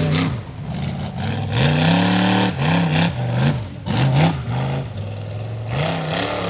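Rock bouncer buggy's high-horsepower engine revving in repeated bursts. The pitch rises and falls about four times, then holds lower near the end.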